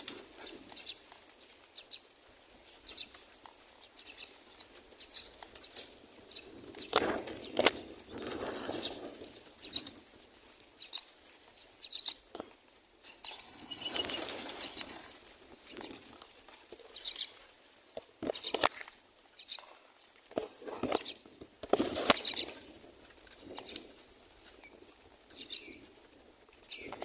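Common myna nestlings giving short, high begging chirps at the nest, repeated about once a second, broken by a few louder bursts of rustling and sharp knocks.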